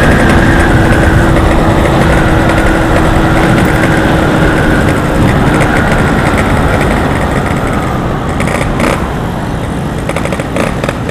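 Yamaha RX-King single-cylinder two-stroke motorcycle engine running at low, steady revs after being throttled off, with road and wind noise, gradually getting quieter. A sharp click comes about nine seconds in.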